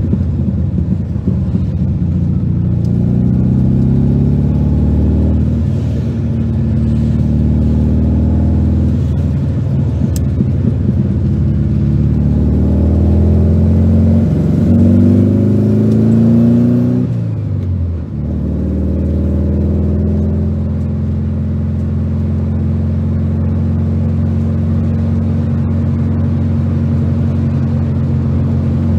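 Air-cooled flat-four engine of a 1973 VW 1302 Super Beetle on dual Weber carburettors, heard from inside the cabin while driving. It pulls up through the gears, its pitch climbing several times and falling at each shift, with the sharpest fall a little past halfway. It then runs at a steady cruise for the last third.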